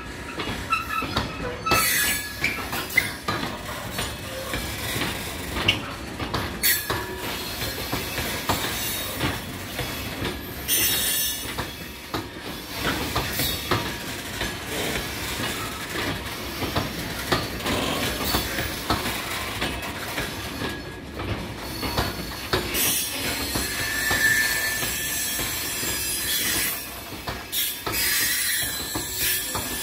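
A long rake of loaded box wagons on an engineering freight train rolling past. Their steel wheels knock repeatedly over the rail joints, and a high-pitched wheel squeal comes and goes several times.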